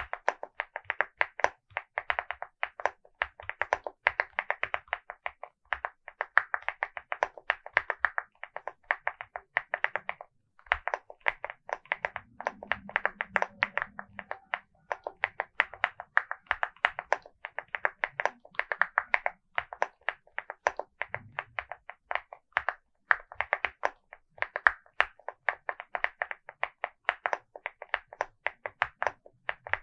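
Typing on a LEOBOG Hi75 mechanical keyboard with Vertex V1 switches and MOA-profile keycaps: fast, continuous key clacks with a brief pause about ten seconds in.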